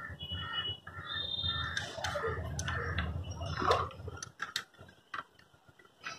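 A bird calling repeatedly, crow-like, over a low rumble for about four seconds, followed by a few light metal clicks from motorcycle gearbox parts being handled.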